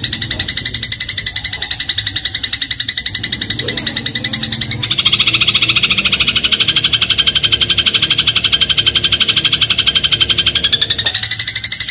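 Eurasian tree sparrow (burung gereja) giving a fast, even chattering trill of about seven notes a second. The trill drops lower about five seconds in and rises back to its first pitch near the end.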